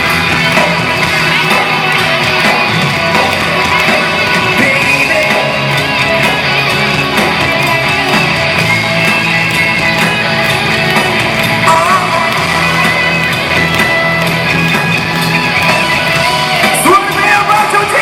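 Live rock music: a male singer with a full band, loud and continuous.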